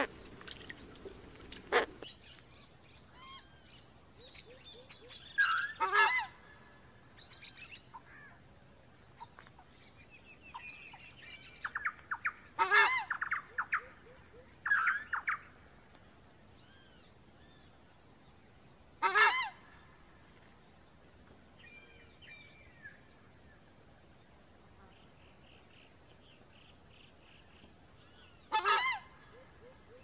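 Southern screamer calling loudly four times, several seconds apart, over a steady high-pitched insect drone and fainter chirps of other birds.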